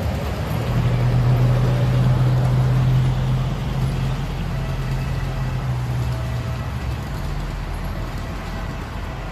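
An engine running steadily with a low hum, fading away over the last couple of seconds.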